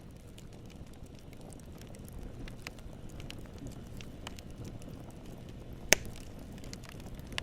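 Campfire burning: a steady low rumble of flames with scattered small crackles of wood, and one sharp loud pop about six seconds in.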